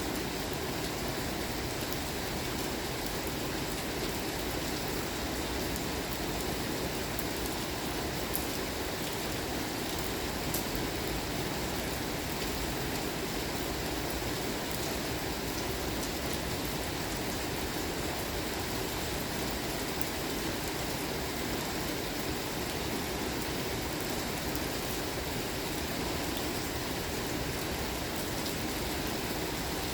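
Steady rain falling, an even hiss with a couple of sharper drip ticks near the middle.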